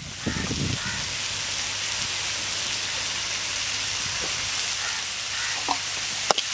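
Chopped onions and tomatoes sizzling steadily in hot oil in a wide metal pan.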